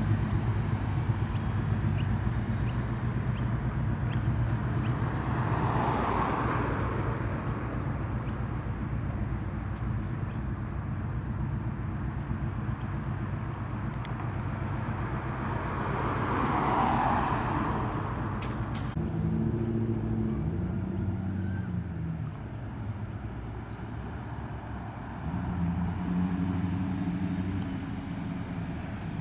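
Car engines rumbling at low speed as cars roll into a car park, with two cars passing louder and an engine note briefly rising and falling about two-thirds of the way through.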